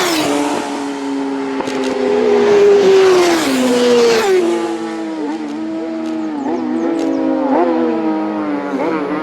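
Racing superbike engines at high revs, the engine note stepping down through several downshifts with short throttle blips between them in the second half, as bikes slow for a corner.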